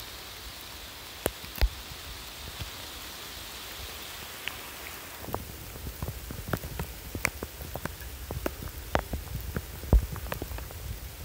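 Rain falling: a steady hiss with scattered sharp drips of drops landing close by. The drips come more often from about halfway through, with a few louder ones.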